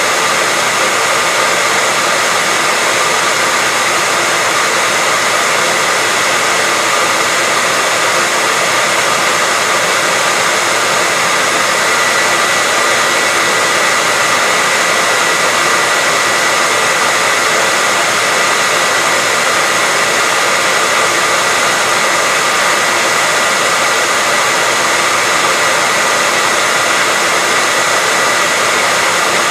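Hair dryer running steadily, a constant airy rush with a faint steady whine in it.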